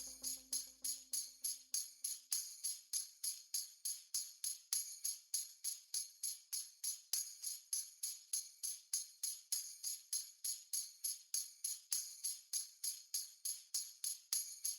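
Instrumental background music winding down to a lone jingle percussion, like a tambourine, struck in a steady, even rhythm of about three to four strokes a second and played quietly. A held low note fades out within the first two seconds.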